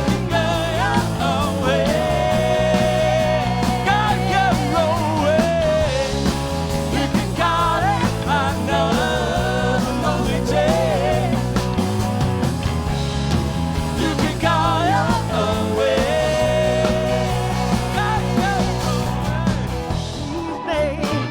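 A live rock and blues band playing an instrumental passage: steady bass and drums under a lead line that holds and bends notes with a wavering vibrato.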